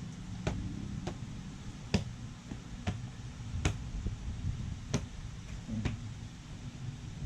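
Sounds of a baby being spoon-fed squash and rice: about seven sharp clicks and smacks, irregularly spaced a second or so apart, over a low steady rumble.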